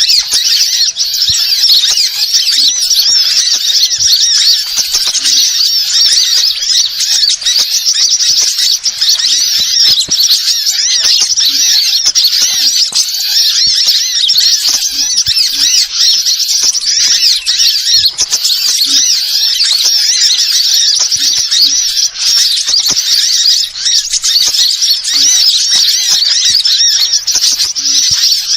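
Small birds twittering and chirping in a dense, unbroken stream of rapid high-pitched notes. It is a bird-lure (pikat) call recording, played to draw wild birds in.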